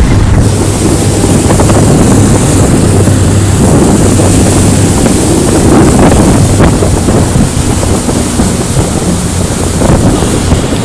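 Motorboat engine running steadily under loud wind buffeting the microphone, with rushing water.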